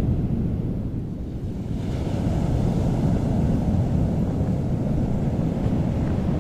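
Steady low rushing of floodwater with wind buffeting the microphone.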